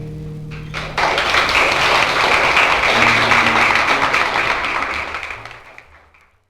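The last plucked notes of the song ring for about a second, then an audience bursts into applause and claps steadily before it fades out near the end.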